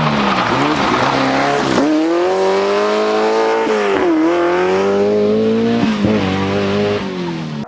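Rally car engine at high revs, its pitch climbing and dropping sharply with gear changes or lifts about two, four and six seconds in, then easing off near the end.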